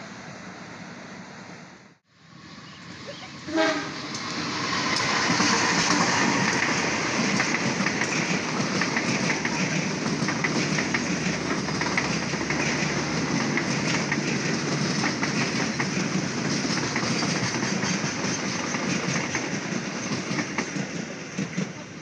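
A long passenger train passing close by. A short horn blast sounds about three and a half seconds in, followed by the steady rumble and clatter of its wheels on the rails, which fades near the end.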